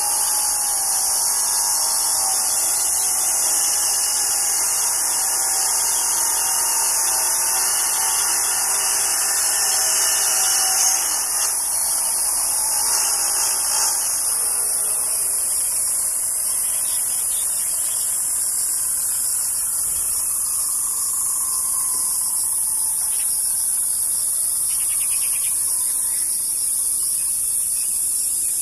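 Steady, high-pitched buzzing of a cicada chorus throughout, with a lower buzzing drone in the first half that fades out around the middle.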